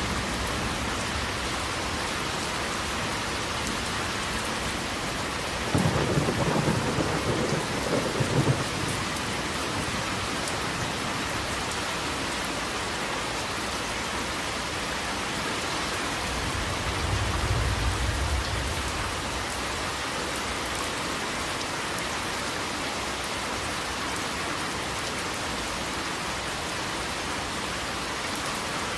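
Steady heavy rain falling, with a sharp crackling thunderclap about six seconds in and a softer low roll of thunder about two-thirds of the way through.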